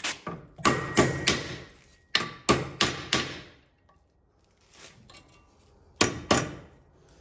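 A hammer knocking a metal part into place with sharp, ringing strikes. There are three quick blows about a second in, four more around two to three seconds, and two more near the end.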